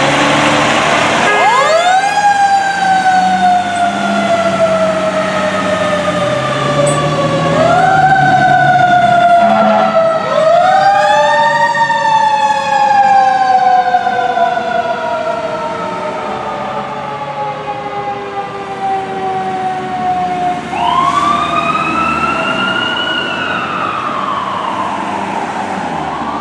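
Fire apparatus sirens wailing, each sweep winding up quickly and then falling slowly over several seconds, with two sirens overlapping, over the rumble of heavy truck engines. The sirens grow fainter in the second half.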